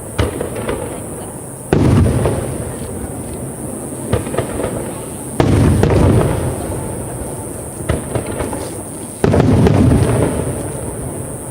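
Aerial fireworks shells bursting: three deep booms about every four seconds, each rolling away slowly, with quick crackling pops between them.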